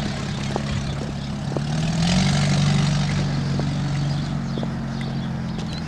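A steady low engine drone that swells about two seconds in and then slowly eases off.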